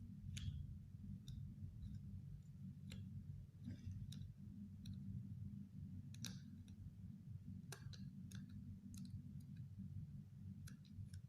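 Faint, scattered clicks and crinkles of cigarette-pack paperboard being handled and folded by hand, over a steady low hum.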